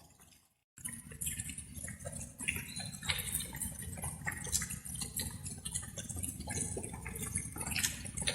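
Light rain: water drops dripping and pattering irregularly over a steady low wash of rain. The sound cuts out completely for about half a second near the start, then resumes.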